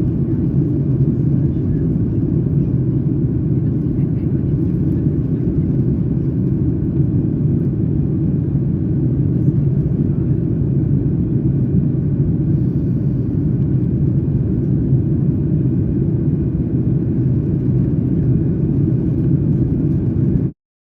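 Steady low rumble of engine and airflow noise inside the cabin of a Boeing 737-9 MAX, with a faint thin whine above it; it cuts off suddenly near the end.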